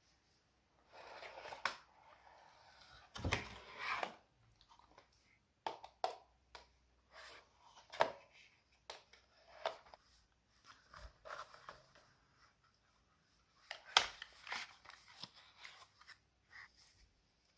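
Hands handling and working on a smartwatch: irregular rustling, crinkling and scraping broken by a series of sharp clicks and knocks, the loudest of them late on.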